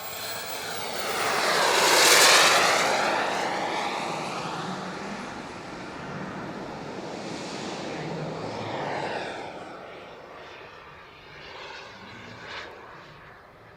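Large turbine-powered RC model jet (Elite Aerosports Havoc) making a low, slow pass: its turbine whine and rush swells to its loudest about two seconds in and then fades. It swells again more faintly around nine seconds before dying away.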